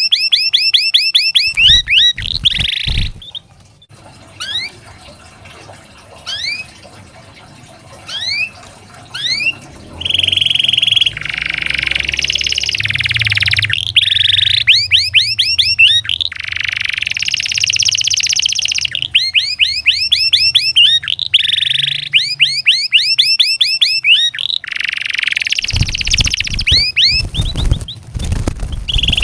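Domestic canary singing a long song in fast runs of repeated rising whistled notes. A few seconds in it thins to single spaced notes, then goes into dense, rattling rolls held for a second or two at a time. Low rumbling noise sits under the song near the start and again near the end.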